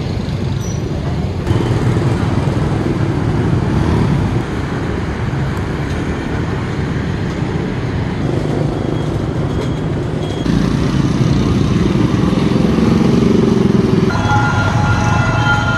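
Steady rumbling run of a passenger train, growing louder about a second and a half in and again about ten seconds in. Near the end a steady sound of several high tones starts over it.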